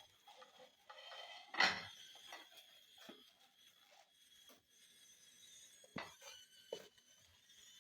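Sparse light knocks and rustles of objects being handled, the loudest about one and a half seconds in, over a faint steady high-pitched tone.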